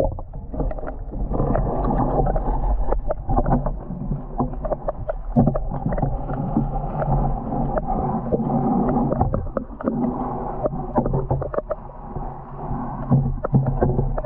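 Muffled underwater sound from a camera dipped into the lake: water rushing and gurgling, with frequent knocks and clicks and a steady low hum.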